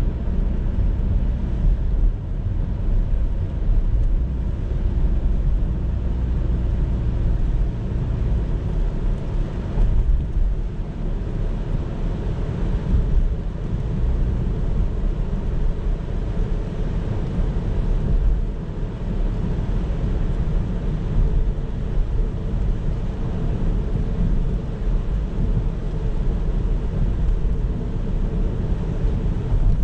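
A car driving along a road: a steady low rumble of road and engine noise with no distinct events.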